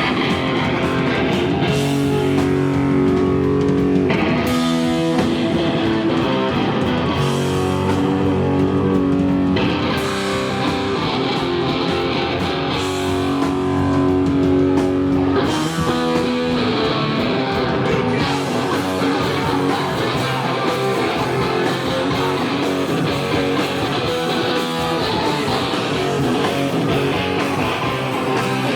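Live rock band playing, with electric guitars to the fore and no singing. The texture changes every few seconds between passages.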